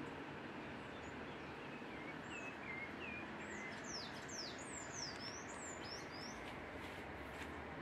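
Small birds chirping: a few short chirps about two seconds in, then a quick run of higher, sweeping chirps over the next few seconds, over a steady low background hiss.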